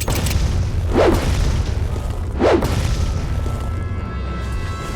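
Cartoon action sound effects: two whooshes about a second and a half apart over a steady low rumble, then a steady high tone holding through the second half.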